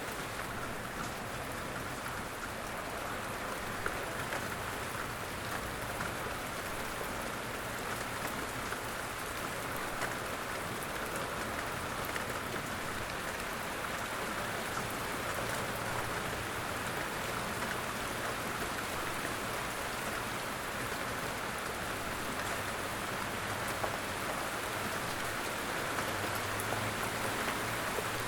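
Steady light rain, an even patter with scattered drop ticks; a low rumble grows in over the last few seconds.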